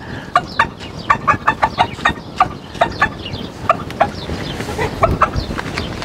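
Sultan chickens clucking: a steady run of short, sharp clucks, several a second.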